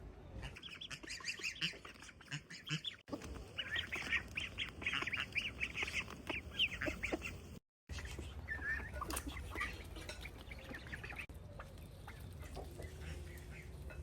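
Ducks calling, many short calls in quick succession. The sound breaks off briefly about three seconds in and again just before the midpoint.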